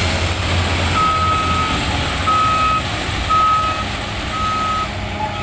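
Reversing alarm on a heavy working machine beeping about once a second, starting about a second in, over its steady engine rumble.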